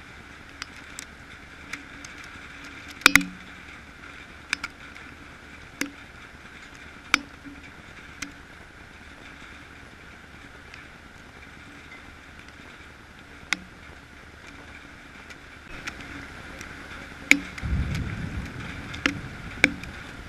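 Steady hiss of a thunderstorm's rain with scattered sharp taps, and a low rumble of about two seconds near the end.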